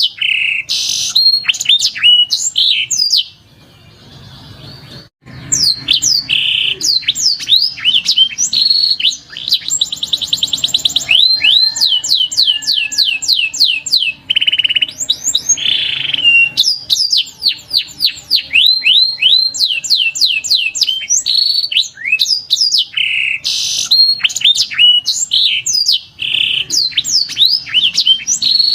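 Domestic canary song: a fast run of whistled, sweeping notes and rapid rolling trills, pausing briefly about four seconds in before resuming.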